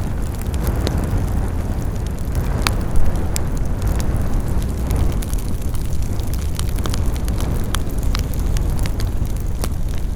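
Wood fire crackling: a steady low rumble of flames with frequent sharp snaps and pops, one a little louder about three seconds in.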